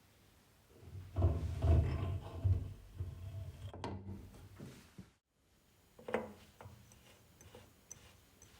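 Objects being handled and rubbed against each other, with a rumbling, scraping stretch of clatter, then after a brief dropout a single sharp knock and a few light ticks.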